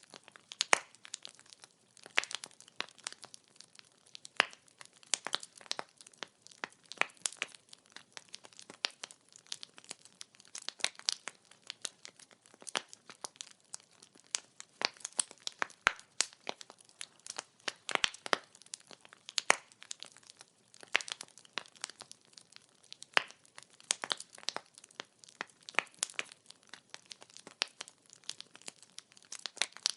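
Burning firewood crackling and popping: sharp, irregular snaps over a faint hiss.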